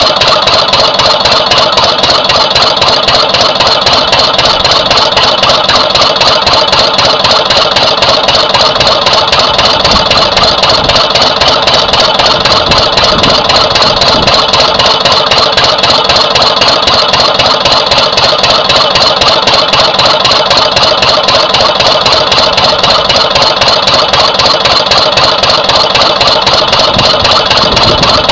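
Twin-cylinder Lister CS stationary diesel engine running steadily with an even, regular firing beat. The engine is still cool, and cylinder two is firing slightly weaker than cylinder one after the fuel pumps were balanced.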